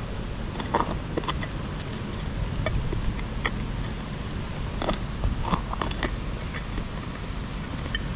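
Heavy wind buffeting the microphone in a steady low rumble, with scattered short clicks and scrapes, a few of them ringing briefly.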